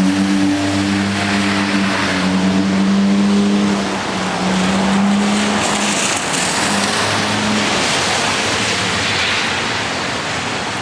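Tropical-storm-force wind from Hurricane Sandy, gusting hard against the microphone as a loud, steady rush. A low droning hum runs under it and fades out about three-quarters of the way through.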